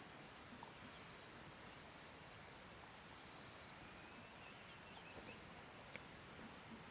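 Faint, steady high-pitched trill of insects in the countryside, swelling and fading slightly, with a soft tick about six seconds in.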